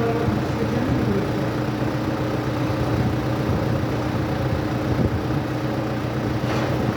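Vehicle engine idling steadily, a constant hum with a few held tones.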